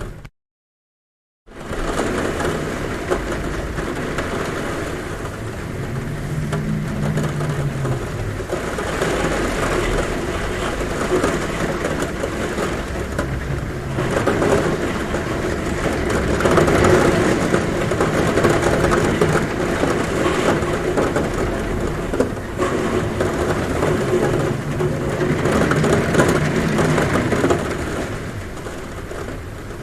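Heavy rain falling steadily on a roof, a dense loud hiss that swells a little through the middle. The sound cuts out completely for about a second just after the start.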